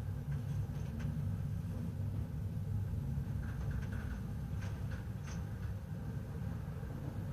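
Steady low rumble of a large car ferry's engines and hull heard aboard, with a few faint ticks or creaks.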